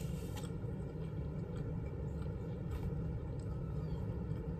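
Chewing and small mouth clicks of someone eating a soft chicken sandwich, over a steady low background rumble.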